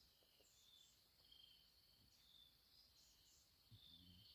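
Faint outdoor insect chorus: a thin, steady high buzz with short high chirps repeating every half second or so.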